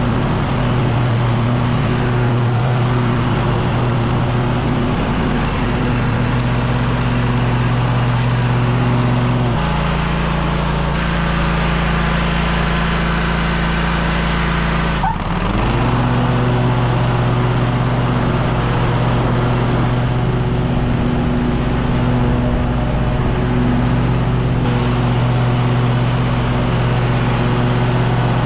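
Echo PB-9010T two-stroke backpack leaf blower running with a steady rush of air. Its engine pitch drops about a third of the way in, dips sharply for a moment about halfway, then climbs back and holds.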